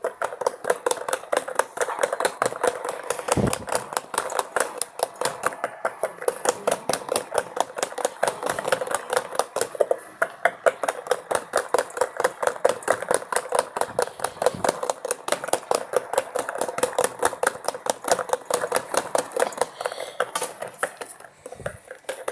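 LG Mini Turbo Drum mini washing machine running its spin cycle, with a rapid, even clatter of knocks about four to five times a second over the motor's hum.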